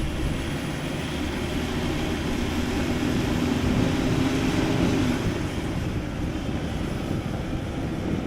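Car engine running hard, its pitch rising about two seconds in and holding before dropping back after about five seconds, typical of a car straining to get out of mud.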